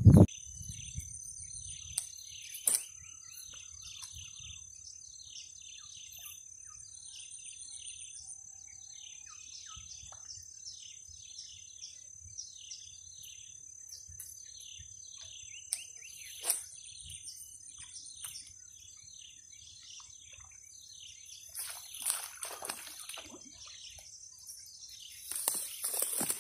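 Birds chirping over and over in short repeated notes, over a steady high-pitched hum. A few louder clicks and rustles come near the end.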